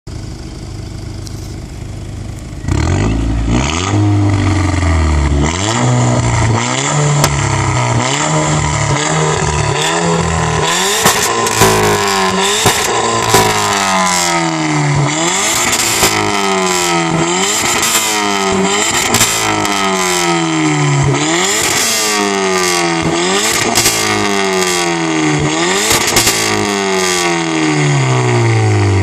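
Volkswagen Golf Mk6 GTI's 2.0-litre turbocharged four-cylinder engine: a quieter steady running at first, then about three seconds in it gets suddenly louder. It is then revved over and over in quick blips, the pitch climbing and dropping back about once a second, with sharp exhaust cracks at many of the rev peaks.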